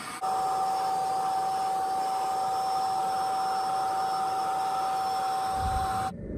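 A small electric motor runs steadily, likely a power tool, with a constant whine over a noisy hiss. It starts abruptly just after the beginning and cuts off suddenly about six seconds in.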